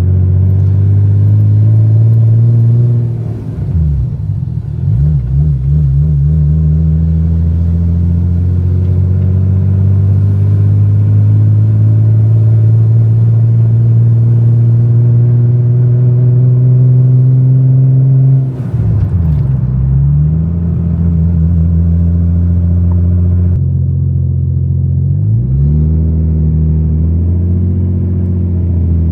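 Nissan Skyline R34's freshly rebuilt RB25DET turbocharged straight-six running on a base tune as the car is driven, holding steady revs for long stretches. The engine note dips and climbs back three times: about three seconds in, around the middle and near the end.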